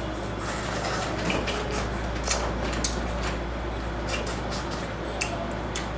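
Scattered sharp clicks and cracks of seafood shells and utensils being handled while eating, over a steady low hum.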